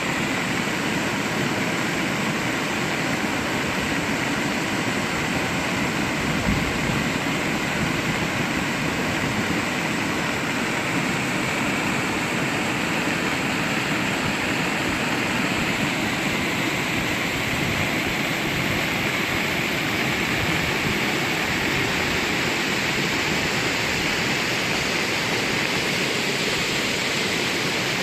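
Rain falling steadily: a dense, even hiss with no let-up, with one brief low bump about six and a half seconds in.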